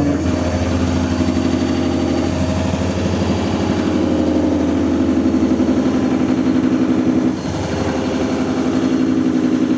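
AEG washing machine spinning a fully loaded drum: a loud motor hum that shifts pitch twice, with a regular pulsing toward the end.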